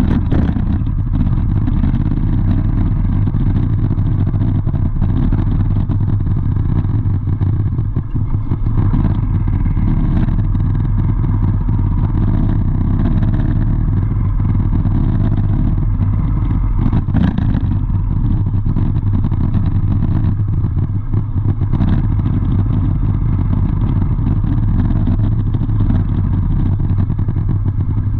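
A vehicle's engine running steadily with a loud, low rumble, with a few brief knocks.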